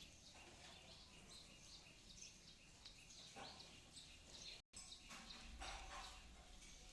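Small birds chirping faintly, many short high chirps overlapping without pause, broken by a momentary gap in the sound about two-thirds through.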